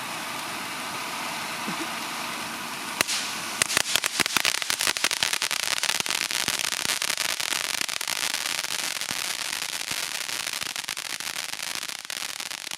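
Consumer fireworks going off: a steady hiss for about three seconds, then a sharp bang and a dense, rapid run of crackling pops that keeps going.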